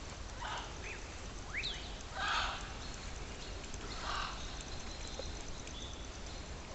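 Open-air ambience with scattered bird calls: three short harsh calls spaced a second or two apart and one quick rising whistle, over a steady low rumble.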